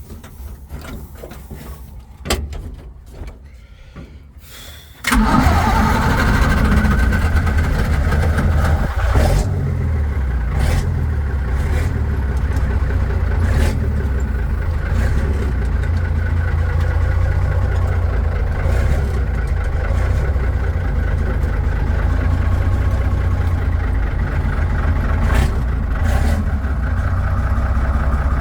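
1955 Mack truck engine on a cold start: after a few seconds of quieter clicks it fires suddenly about five seconds in and settles into a steady, loud idle.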